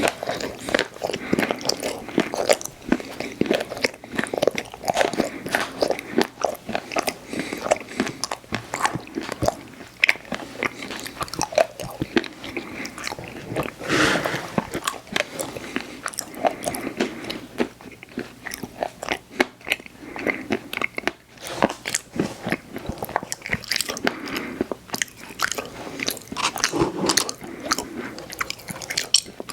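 Close-miked eating of ice cream desserts: many bites with crunching and wet chewing, in dense, irregular clicks and crackles.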